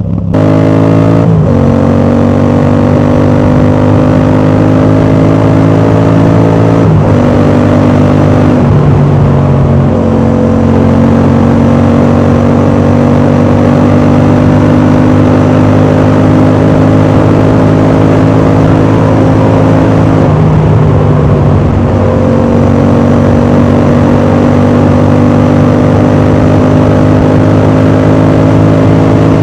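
Yamaha MT-07 parallel-twin engine running loud under load, its exhaust fitted with a dB killer. The pitch climbs slowly through the gears, with shifts about a second in and about seven seconds in, another change around ten seconds, and a brief drop in pitch around twenty seconds.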